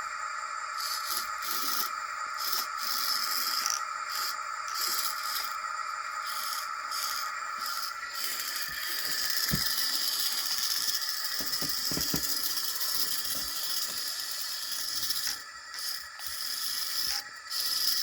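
Small electric motor and gearing of a remote-controlled model vehicle running on an HO-scale layout: a steady high whine with irregular rattling and clicking, its tone shifting about halfway through.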